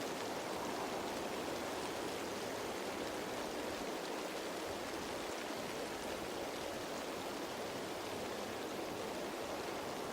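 Steady rain falling on leaves: an even hiss of many drops with faint scattered patters, no change in level.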